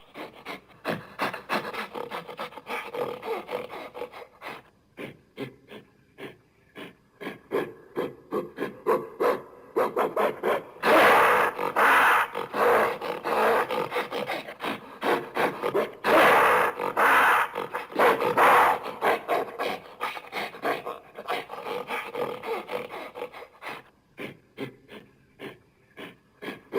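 Primate calls: a long series of rapid, rough, rasping pulses that swell into two loud bouts partway through, then die down toward the end.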